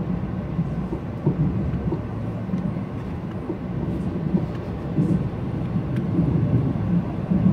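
Train running on the rails: a steady low rumble with scattered faint clicks.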